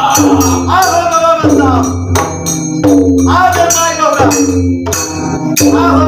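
Devotional bhajan singing with a drum keeping the beat and jhaal (brass hand cymbals) clashing, strong accents falling about every one and a half seconds.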